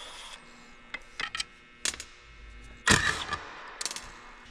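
Scattered sharp metal clicks and knocks of hand tools and parts as the gauge wheel of a John Deere 1770 NT corn planter is taken apart to get at a worn bearing. The loudest knock comes about three seconds in.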